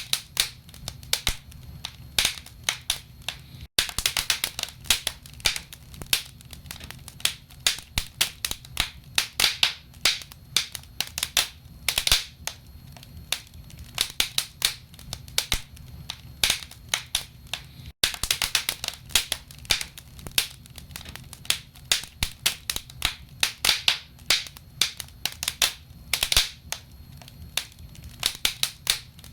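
Wood fire in a fireplace crackling: dense, irregular sharp pops and snaps of burning logs over a low, steady rumble of the flames. The sound cuts out for an instant twice.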